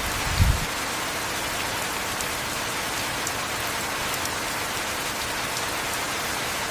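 Heavy rain falling steadily, an even hiss with faint scattered drop ticks. A brief low thump about half a second in.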